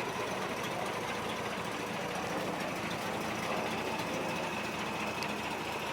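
Inline-six engine of a 1958 Rambler wagon idling steadily.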